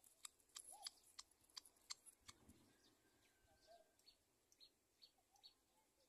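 Faint, short high bird chirps, with a quick run of sharp ticks in the first two seconds.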